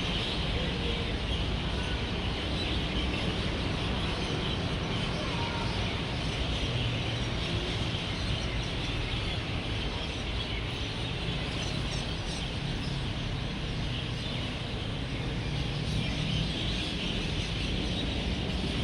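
A roosting flock of birds chirping and chattering densely and without a break, over a steady low rumble of road traffic.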